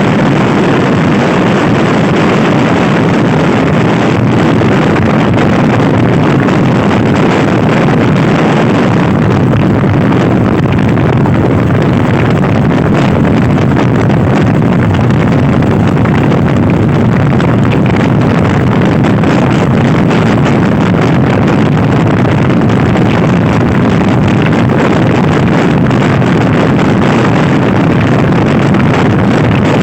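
Loud, steady wind rush on the microphone from riding a Honda Scoopy i scooter at speed.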